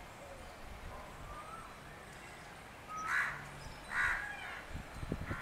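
Two loud, harsh bird calls, about a second apart, over faint background chirping.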